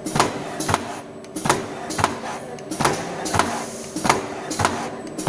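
Screen printing machine running: sharp mechanical clacks about twice a second over a steady hum.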